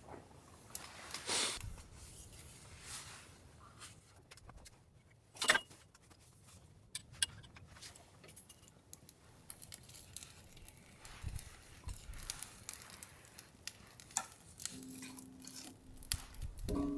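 Scattered light clicks and clinks, as of small hard objects being handled, with one sharper knock about five and a half seconds in. A low steady tone starts near the end.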